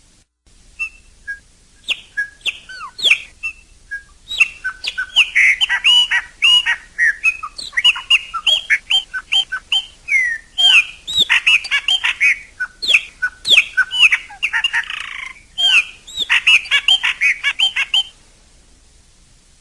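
Chopi blackbird (pássaro-preto, graúna) singing: a long song of varied liquid whistles and quick gliding notes, a few scattered notes at first, then fast and dense, with a short harsh note near the end. It stops a little before the end, leaving a faint hiss.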